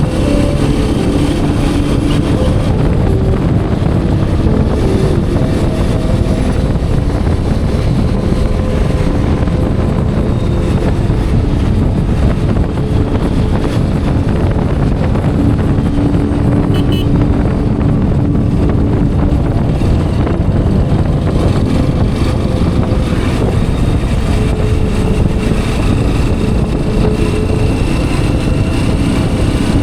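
Hero Xpulse 210's single-cylinder engine running steadily as the motorcycle is ridden, with a dense rushing noise of wind and road underneath. The engine tone shifts a little at times as the throttle changes.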